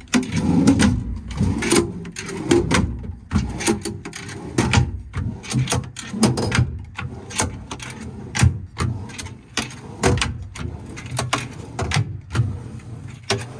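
Metal tool drawers in a truck service-body compartment being slid open and shut one after another, with repeated clicks, knocks and clatter from the drawer slides and latches.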